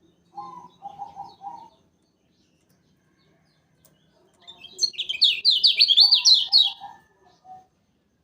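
Kecial kuning (a Lombok white-eye) singing: a loud, fast run of about eight bright, down-slurred chirps midway through. Before and after it come quieter groups of three lower calls.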